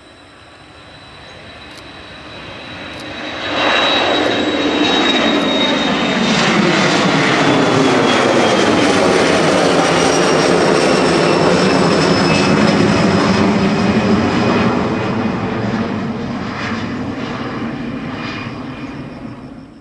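Boeing 737 twin jet engines at takeoff power as the airliner passes. The noise builds, jumps sharply about four seconds in and holds loud for about ten seconds, with a high fan whine that falls slowly in pitch. It then fades and cuts off abruptly near the end.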